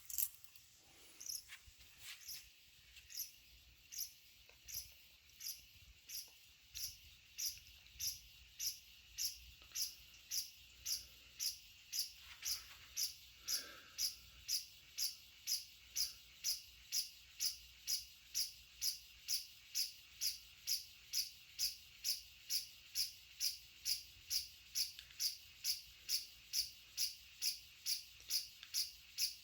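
Canarm Twister 30-inch ceiling fan spinning up on low in reverse, giving a sharp, high-pitched tick once per cycle over a faint hum. The ticks speed up from about one a second to nearly two a second as the fan gathers speed.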